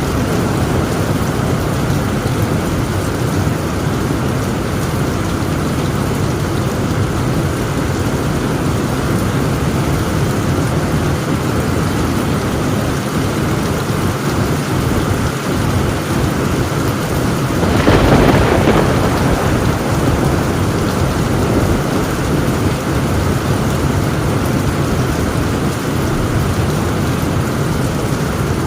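Heavy, steady rain on a tin roof, with a short rumble of thunder swelling up about two-thirds of the way through.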